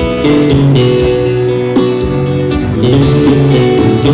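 Live forró band playing an instrumental passage led by guitar, with a steady beat.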